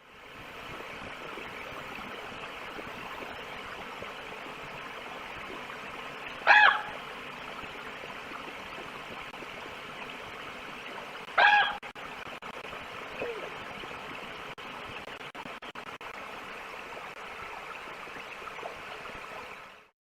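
Two short, loud, high yelps, most likely from a gray wolf, about five seconds apart, over a steady hiss.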